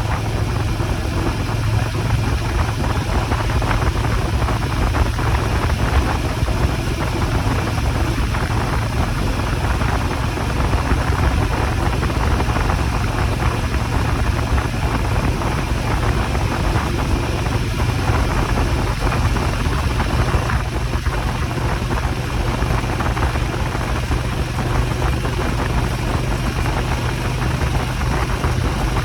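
Motorcycle running steadily while riding, a constant engine drone under an even rush of wind and road noise.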